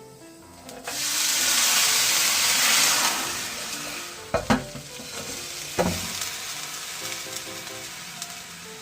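Sizzling on a hot square iron griddle pan being seasoned: a loud sizzle starts about a second in and slowly dies down, with two sharp knocks in the middle.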